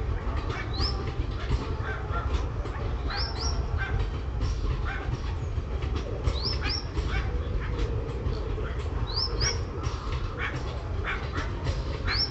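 Birds chirping over a steady low rumble, with a pair of quick rising whistles repeating about every three seconds.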